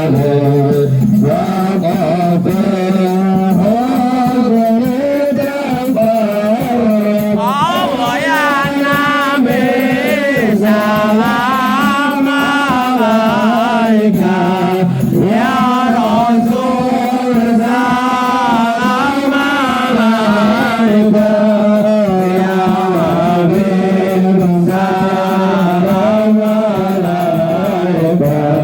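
Devotional Islamic chanting of sholawat in praise of the Prophet: a continuous sung melody with long, ornamented notes that bend and waver in pitch.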